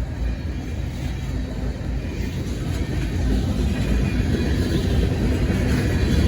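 Low, steady rumble of a diesel freight train, growing slowly louder as it approaches.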